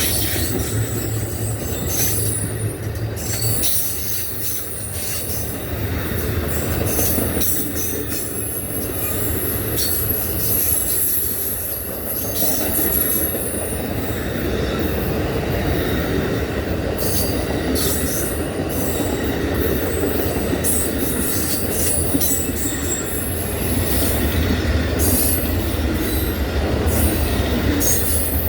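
Cars of Amtrak's Auto Train rolling past under a steady low rumble, with high thin steel-wheel squeals that come and go and scattered clicks from the wheels.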